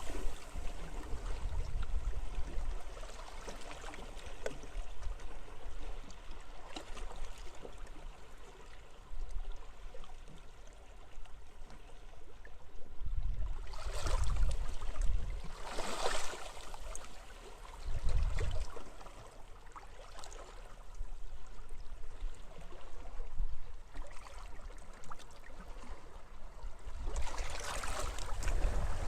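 Small sea waves washing onto a beach in wind, in a steady hiss that swells whenever a larger wave breaks, with a low wind rumble on the microphone.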